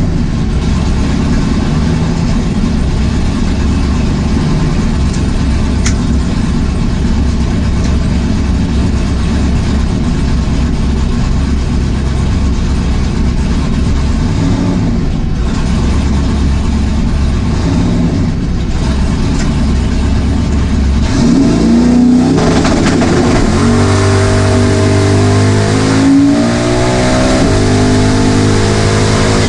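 Drag-race Camaro's engine rumbling steadily at low speed, then revving hard about three quarters of the way in, its pitch climbing in steps.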